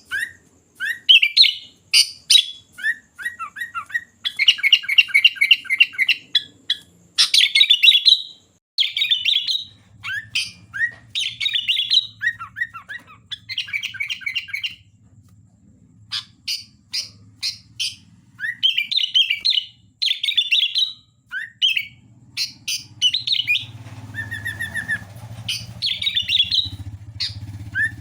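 Sooty-headed bulbul (kutilang) singing actively in quick runs of short chirping phrases, with a brief lull around the middle. A faint low hum sits underneath for much of the second half.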